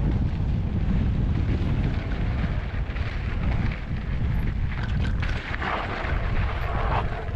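Wind buffeting the microphone of a camera on a moving e-bike, a dense, steady low rumble. About six seconds in, a brighter hiss comes in for about a second.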